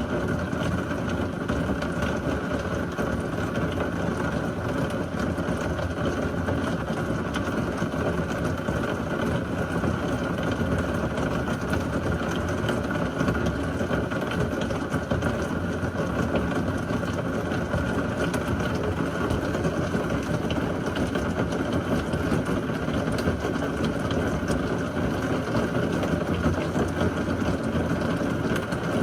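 Heavy rain from a severe thunderstorm falling steadily, a dense even downpour with no thunderclaps.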